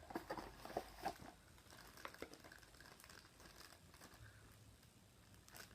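Faint handling of a toy's packaging: a few quick clicks and crinkles in the first second or two, then near silence.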